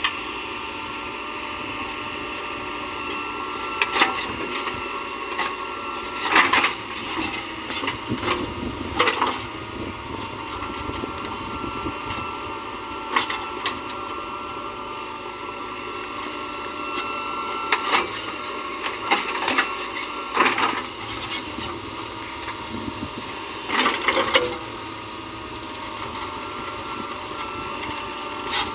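JCB backhoe loader's diesel engine running steadily, with repeated knocks and clanks at irregular intervals, some in short clusters, as the machine loads a tractor trailer.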